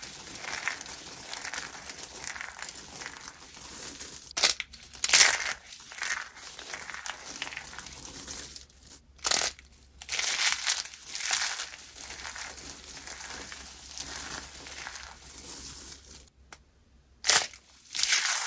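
Dry soap being crushed, a continuous crackly crunching with several sharp, louder crunches and a brief pause near the end.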